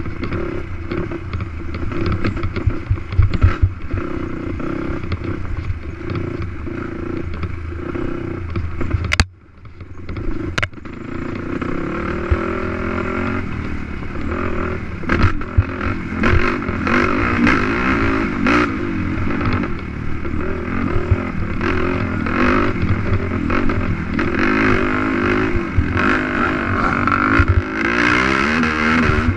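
Race quad's engine running hard under load, with clatter from the machine over rough ground. About nine seconds in the sound drops out sharply for about a second, then comes back and climbs in pitch as the engine revs up again.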